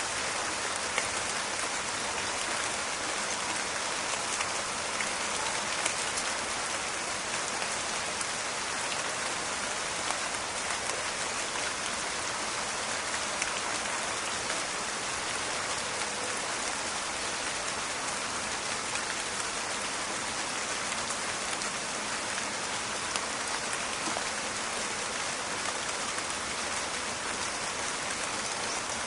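Steady rain falling in a forest, a dense patter with many small crackling drop impacts.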